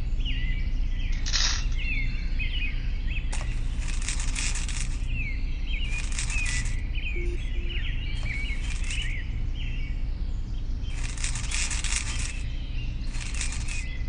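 Small birds chirping busily over a steady low hum, with several short rustling hisses every couple of seconds.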